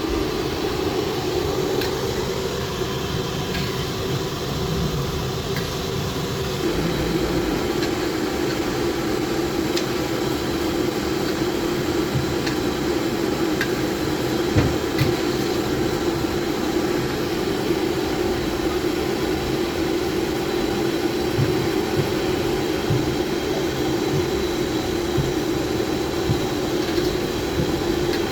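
Steady mechanical rumble and hum, with a few faint clicks over it.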